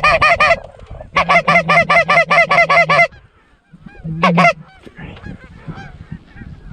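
Goose call blown in two fast, even runs of clucks, each lasting about two seconds, then a short double cluck, calling to Canada geese; faint goose honking follows near the end.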